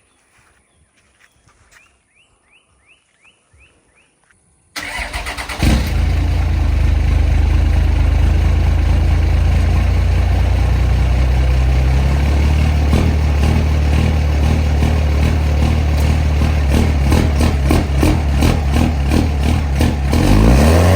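Pickup truck engine cranked and started about five seconds in, catching within a second, then running loudly and steadily, with a small rise in pitch near the end.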